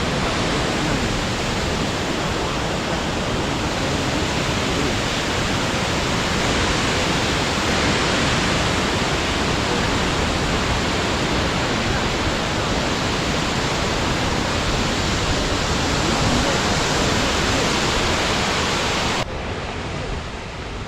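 Shifen Waterfall pouring into its pool: a steady, loud rush of falling water. Near the end it suddenly drops to a quieter level.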